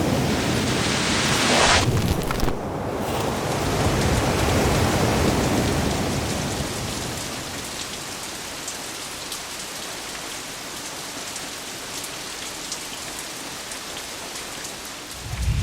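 Steady rain with low thunder rumbling during the first few seconds; the rain then settles into a quieter, even hiss with scattered drop ticks. A low boom comes right at the end.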